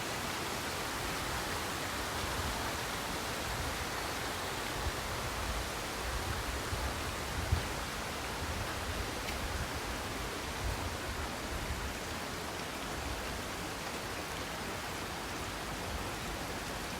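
Steady, even rush of falling water from the Minoo Falls area, with some uneven low rumbling in the middle.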